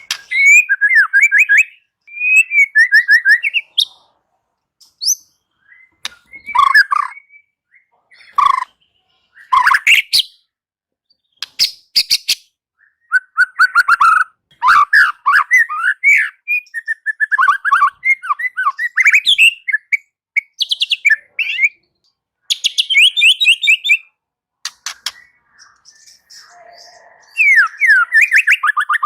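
White-rumped shama (murai batu) singing loud, varied phrases of rapid trills and sliding whistled notes, mixed with sharp clicking notes, in bursts separated by short pauses.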